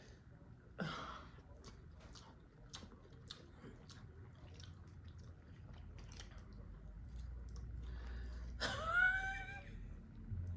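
Faint eating sounds: chopsticks picking at ramen noodles in a bowl, with small scattered clicks and chewing. A short voice-like hum comes near the end.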